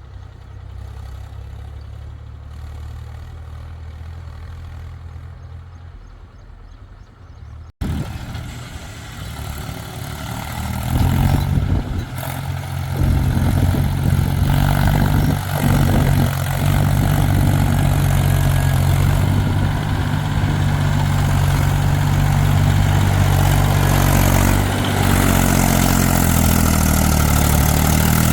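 Heavy diesel engine running. It is quieter at first. After an abrupt cut about eight seconds in it is much louder and steady, and grows louder again around eleven seconds in.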